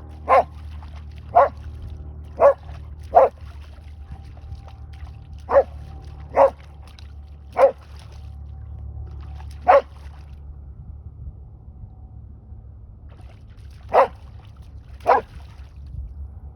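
An elderly dog barking in single short, sharp barks, about ten of them at uneven spacing with a pause of several seconds near the end, over a steady low rumble.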